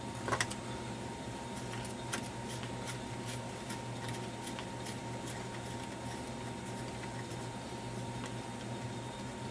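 A few light clicks and taps of small parts and a tool being handled during radio disassembly, the loudest a quick double click just after the start and another about two seconds in, over a steady low hum.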